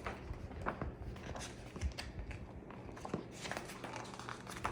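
Paper and packaging being handled: soft rustling with scattered light clicks and taps, the sharpest a few times through.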